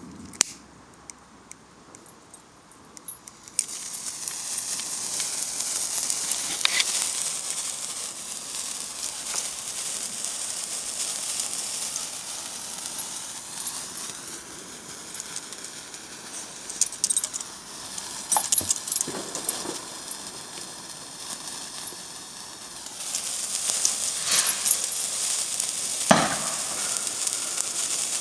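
Lit sparkler fizzing with a steady hiss and crackle. The hiss starts suddenly about three and a half seconds in, grows louder again near the end, and is dotted with sharp crackles.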